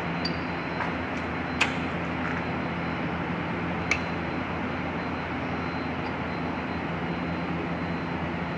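Steady mechanical hum with a constant noise bed, broken by two sharp clicks about one and a half and four seconds in.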